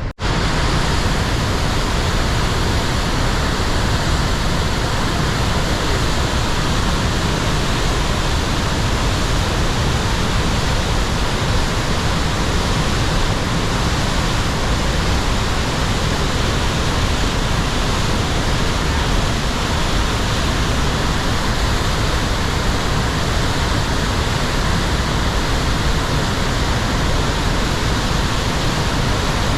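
Loud, steady rush of a large waterfall, a dense even roar of falling water that cuts in abruptly at the start and holds unchanged.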